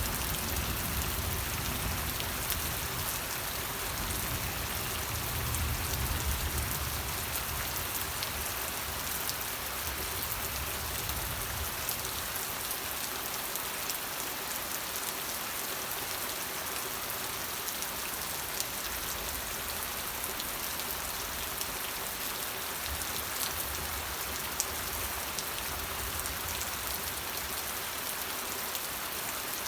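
Steady rain falling on a surface, a continuous hiss dotted with the ticks of individual drops. A low rumble underneath fades out about twelve seconds in and comes back later.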